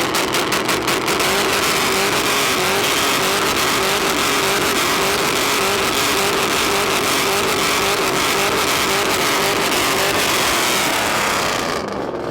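Truck engine held at high revs during a burnout: rapid pulsing off the rev limiter at first, then a steady loud roar at one held pitch that drops away near the end.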